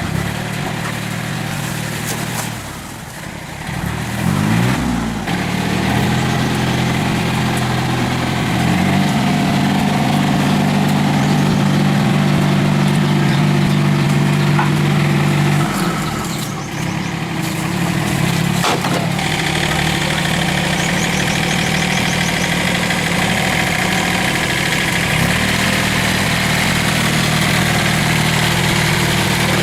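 An engine running steadily, revving up about four to five seconds in, dropping briefly around sixteen seconds in, then settling back to a steady run.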